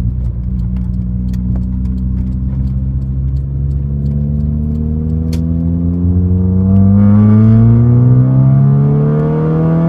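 Car engine pulling under acceleration: it runs at a steady pitch at first, then from about halfway through its pitch climbs steadily and it grows louder as the car speeds up.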